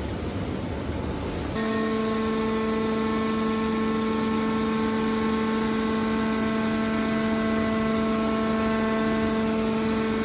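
Factory machinery running: a low noisy rumble that changes abruptly, under two seconds in, to a steady pitched hum with several overtones.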